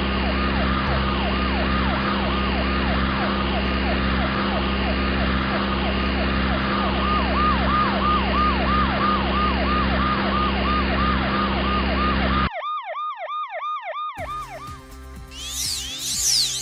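Siren sound effect in a fast repeating yelp, about four falling wails a second, over a steady engine hum. Both cut off suddenly about twelve seconds in. A brief siren on its own follows, then cartoon music with sliding boing effects near the end.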